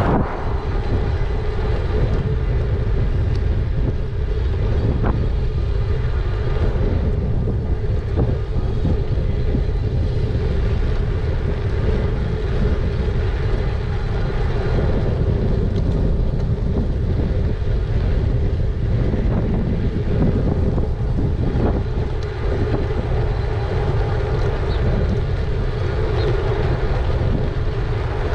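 Wind rumbling steadily on the microphone of a camera riding along on a moving e-bike, with a steady hum underneath.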